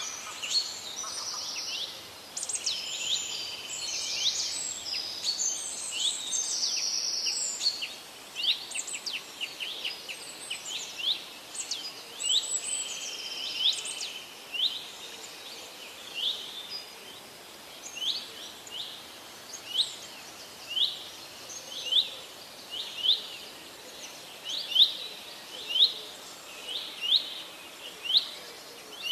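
Forest birds singing over a faint steady hiss: several birds call over one another at first, then from about halfway one bird repeats a short, sharp, high call roughly once a second, growing louder near the end.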